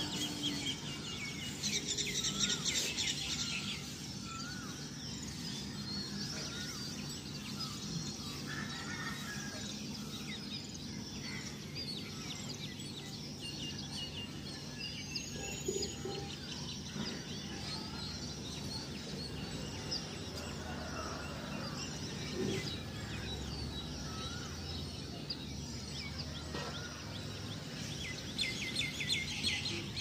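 Several birds chirping and warbling, with bursts of rapid trilling about two seconds in and again near the end, over steady background noise.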